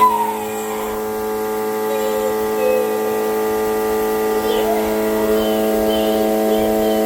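Vacuum cleaner motor running steadily with an even hum.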